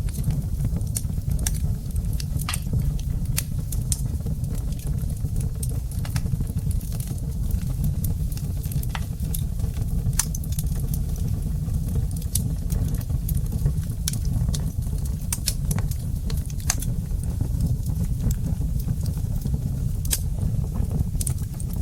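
Wood fire burning in a fireplace: irregular sharp crackles and pops, several a second at times, over a steady low rumble.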